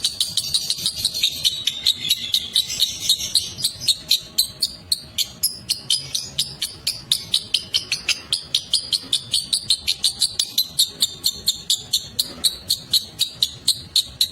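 Lovebird ngekek: a long, unbroken chatter of sharp, high chirps repeated about four or five times a second, with a denser high trill under them during the first few seconds.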